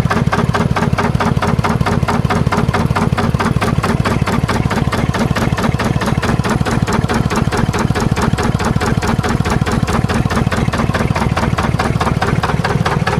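Gleniffer DB2 two-cylinder marine diesel engine running steadily at a fast, even idle, each firing stroke a distinct knock.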